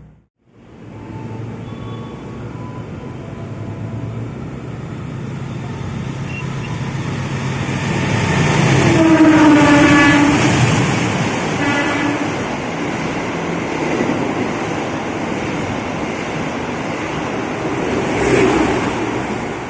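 A train passing, its rumble building to a peak about halfway through. At the peak it sounds a long horn that drops in pitch as it goes by, then gives a shorter second horn blast about two seconds later.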